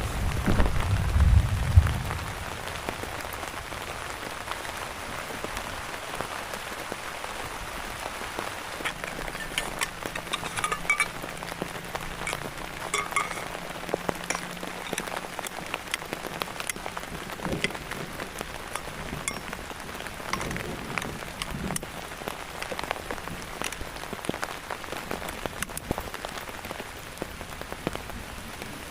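Steady rain falling, with many individual drops striking close by as sharp ticks. A loud low rumble fills the first two seconds before it settles to the rain alone.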